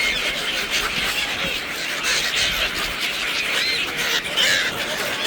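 A flock of gulls calling all at once, many short overlapping cries that bend up and down in pitch.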